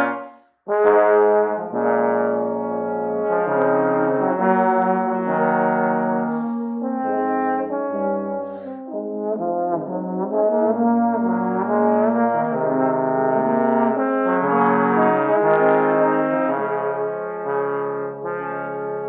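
Trombones playing sustained notes in several-part harmony, the chords moving slowly from note to note, with a short break about half a second in before the playing resumes.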